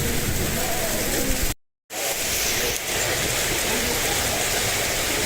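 Heavy cloudburst rain pouring down steadily, a dense even hiss; the sound drops out to complete silence for a moment about a second and a half in, then the rain resumes.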